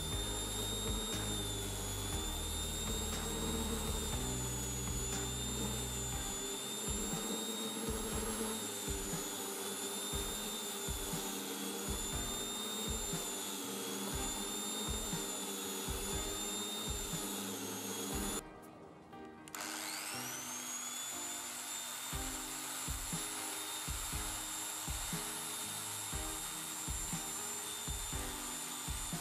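Angle grinder driving a flexible shaft, running with a steady high whine that wavers slightly in pitch. About two-thirds of the way through the sound cuts out for about a second, then the whine climbs back up as the motor spins up to speed. Background music with a steady beat plays throughout.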